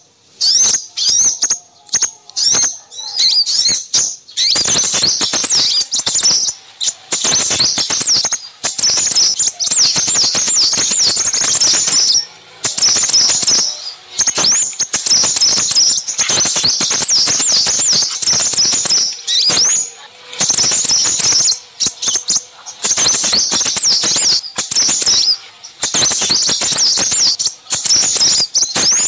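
A busy chorus of small songbirds: rapid, high, thin chirps and twitters crowding over one another in long runs with brief pauses. It is a bird-lure recording of small-bird calls of the kind used to draw in crimson sunbirds.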